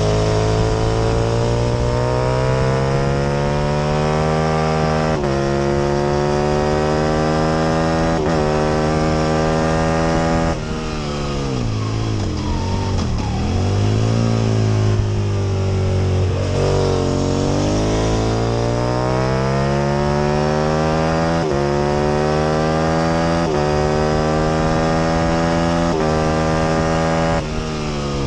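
Aprilia RSV Mille R's 998 cc V-twin racing engine at full throttle, revs rising and dropping back at two upshifts. About ten seconds in the throttle closes and revs fall away for a corner, then the engine pulls hard again and climbs through several more upshifts.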